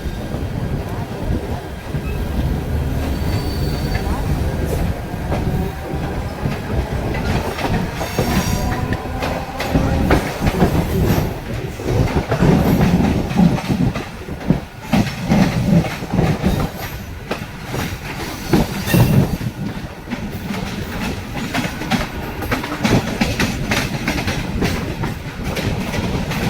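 Mumbai suburban electric local train running, its wheels clattering over rail joints and points with some squealing from the wheels.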